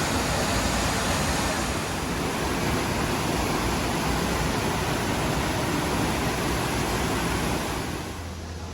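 Ryuzu Falls, a cascading waterfall, rushing as a steady loud roar of water. About eight seconds in it turns quieter and duller.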